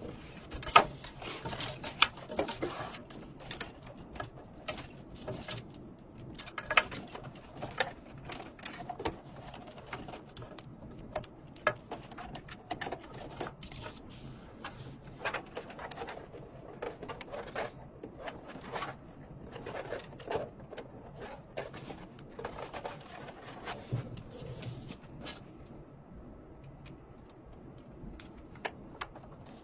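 Irregular clicks, taps and knocks of small hard plastic and metal parts being handled, as when a desktop computer is assembled, with a few sharper clacks in the first few seconds.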